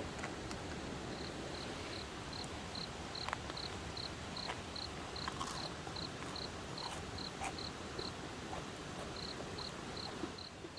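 An insect chirping in even, high-pitched pulses, about three a second, pausing briefly near the end before starting again, with scattered faint clicks.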